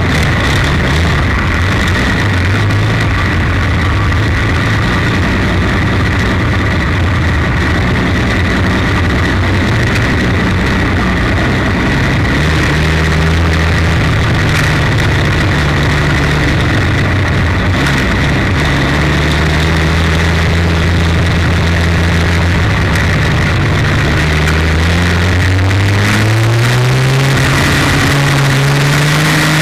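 300 cubic-inch straight-six engine of a 1932 Ford Super Modified race car running steadily at low revs. Its pitch climbs steadily for a few seconds near the end as it picks up revs, then holds.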